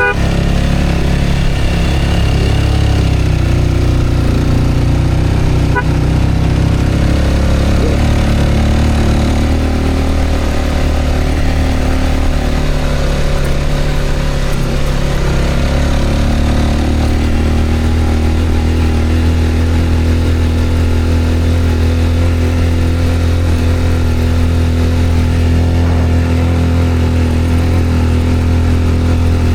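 Engine of a motor vehicle on the move, a steady drone over road noise. Its pitch shifts between about eight and sixteen seconds in, then holds steady.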